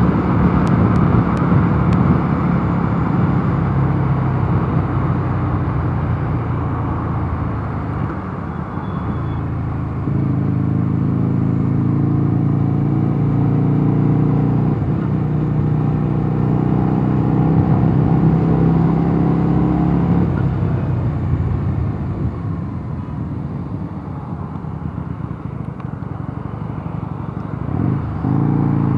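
Mondial Nevada 250 motorcycle engine running while riding. The engine note eases off briefly about eight seconds in and again for a longer stretch from about twenty-one seconds, then picks up near the end.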